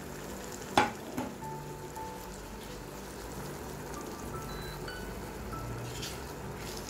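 Goat testicles frying in a masala sauce in a non-stick pan, with a steady sizzle. A sharp knock comes about a second in, with a smaller one just after, and a wooden spatula starts stirring near the end. Faint background music plays under it.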